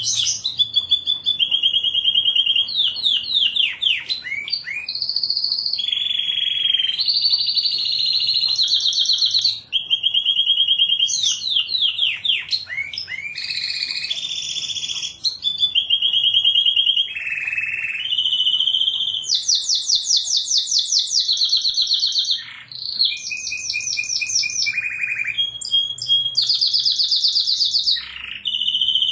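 Domestic canary singing a continuous song of rapid trills and rolls, switching to a new phrase every second or two, some phrases low and rolling, others high and fast.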